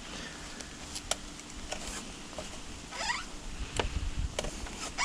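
A bamboo saw's blade pinched in a cut through bamboo, clicking and scraping as it is worked back and forth to free it. A short rising squeak comes about three seconds in and another near the end.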